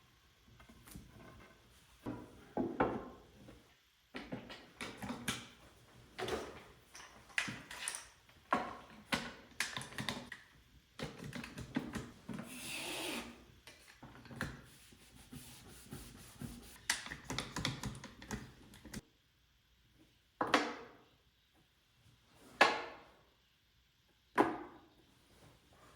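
Hand work with wooden pieces: an irregular run of knocks, scrapes and rubs, then three sharp single knocks about two seconds apart near the end.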